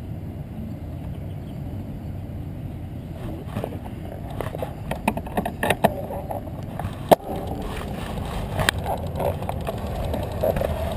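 Bicycle riding along with a steady wind and road rumble. From a few seconds in, the frame and parts rattle and click over rough pavement, with a sharp knock about seven seconds in and another near nine.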